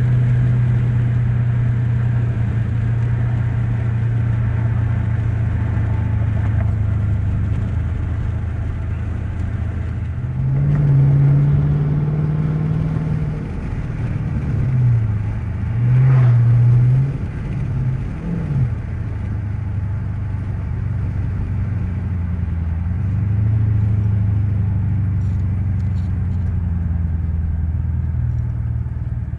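2013 Dodge Charger's engine and exhaust under way at a steady pitch. About ten seconds in the engine note climbs, swings up and down a few times as the throttle is worked, then settles back to a steady cruise.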